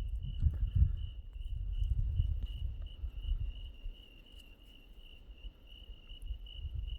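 Crickets trilling steadily at one high pitch. A low rumble on the microphone is loudest for the first three seconds and then eases off.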